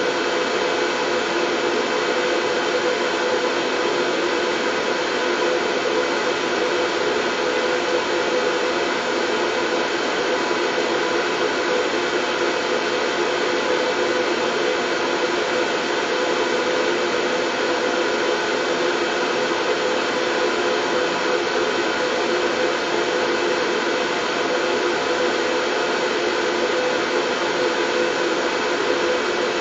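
Steady white noise: a constant, unchanging hiss with a faint steady hum running through it.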